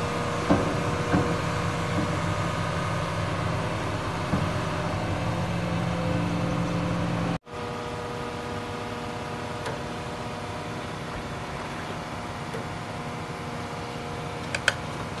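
Diesel engine of an excavator running steadily, with a few short knocks. About seven seconds in the sound cuts out for a moment and then resumes a little quieter.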